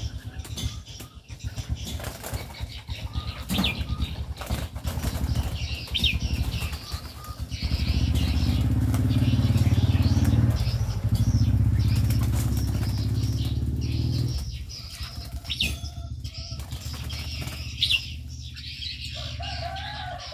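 Aviary birds flapping their wings, a dense rapid fluttering, with a few short high bird calls. A louder low steady hum joins about 8 seconds in and stops about 14 seconds in.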